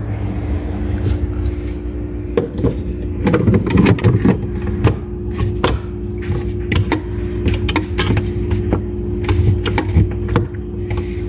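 Irregular plastic clicks and knocks of a new refrigerator water filter cartridge being handled and fitted into its housing, busiest a few seconds in, over a steady hum.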